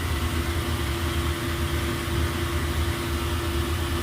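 Shop machinery running steadily: a low hum with a constant whine held throughout.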